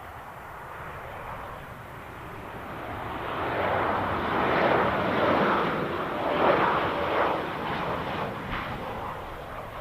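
An airliner's engines rising to a loud peak about five to seven seconds in, then easing off as the aircraft passes.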